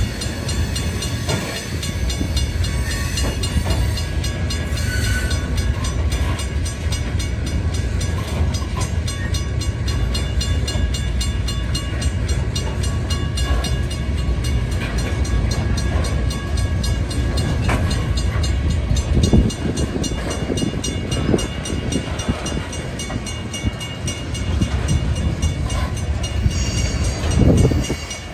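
Loaded coal hopper cars rolling past: a steady heavy rumble of steel wheels on rail. Sharper wheel clacks come thicker from about two-thirds of the way in, over a steady ringing from the grade-crossing signal.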